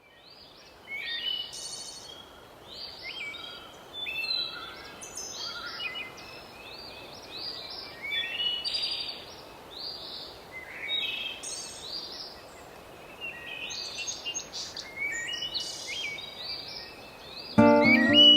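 Several small songbirds singing and chirping over one another in a busy chorus, over a faint steady hiss. A few notes of music come in near the end.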